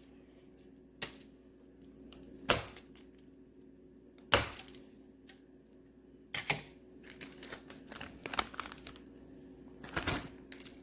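A knife chopping a hard wax melt tart on a cutting board: a few sharp knocks about every second and a half to two seconds, then quicker, lighter clicks of blade and wax pieces near the end.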